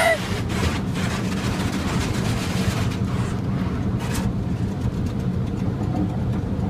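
Automatic car wash machinery working over the car, heard from inside the cabin: a steady rumbling wash of noise with a low hum, fuller for the first three seconds and then easing.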